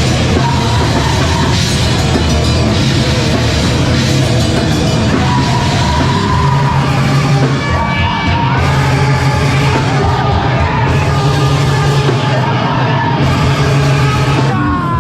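Live heavy rock band playing loudly: distorted guitars, bass and drums, with yelled vocals.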